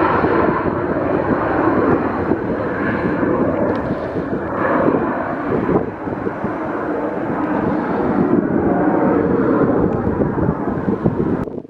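Airliner engines running loud and steady as a fixed-wing aircraft passes.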